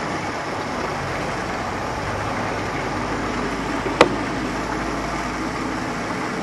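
Steady background noise with one sharp click about four seconds in.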